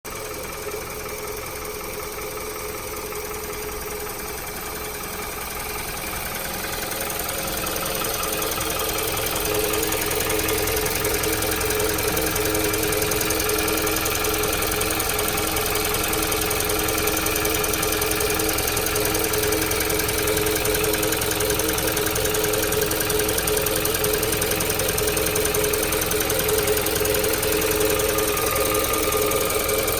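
Toyota Noah 60-series 2.0-litre four-cylinder engine running steadily at idle with an abnormal noise that the owner is worried about, still present after an S-FV oil additive. The sound grows louder between about six and ten seconds in, then holds steady.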